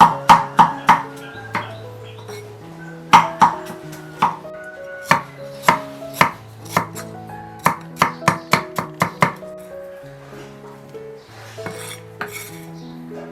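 A knife chopping food, in irregular runs of quick, sharp strokes, over background music with held melody notes.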